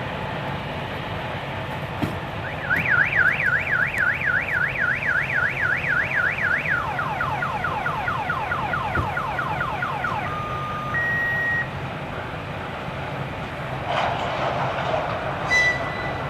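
Car alarm siren cycling through its tones. First comes a fast warble of about four rises a second, then a run of quick falling sweeps, then two short steady beeps, all over a low steady rumble. Near the end a brief rushing noise is followed by a short high tone.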